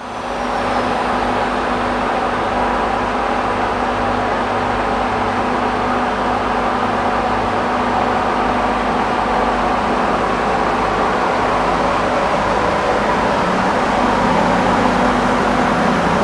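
KiwiRail EF-class electric locomotive standing at a platform, giving a steady whirring hum with several held tones. It grows a little louder near the end as a new lower tone comes in.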